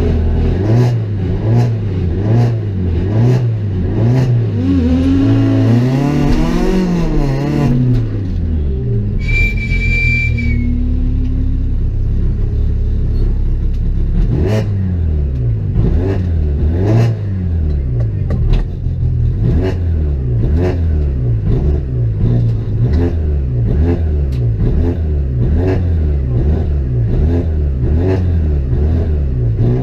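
Peugeot 206 XS rally car's engine revving at a standstill, heard from inside the cabin: the throttle is blipped over and over, the revs rising and falling about once a second, with one longer climb and fall around five to eight seconds in. A short high-pitched tone sounds about nine seconds in.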